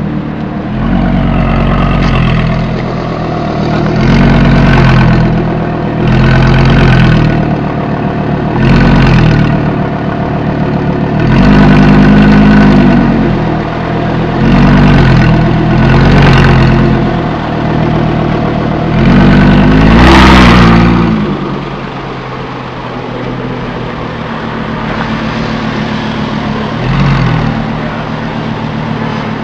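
ABT-tuned Audi R8 V10's 5.2-litre V10 revved hard about eight times in a row, each rev rising and falling back, the last one the loudest. It then settles into a steady idle, with one short light blip near the end.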